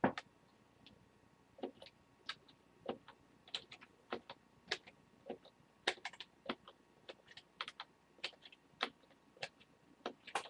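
Faint, irregular clicking of computer keys, one or two light clicks a second with uneven gaps.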